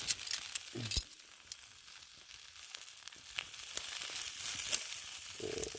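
Chicken legs and sausages sizzling on a flat rock used as a griddle over a campfire: a steady high hiss with scattered crackles and pops.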